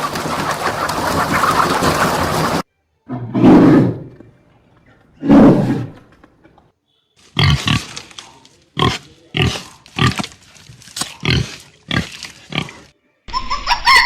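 Animal calls: a noisy stretch, then after a cut two loud low calls, then a run of about ten short calls spaced roughly half a second apart.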